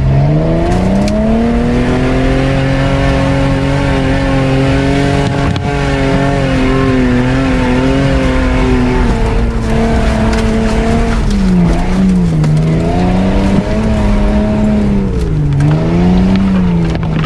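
An off-road 4x4's engine revs hard under load. It climbs in pitch in the first two seconds and is held high, then eases off and picks up again several times in the last third. A few knocks and scrapes come from branches brushing the vehicle.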